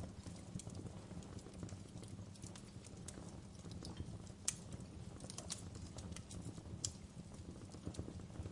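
Wood fire burning: a steady low rumble of flames with scattered irregular crackles and two sharper pops, about four and a half and seven seconds in.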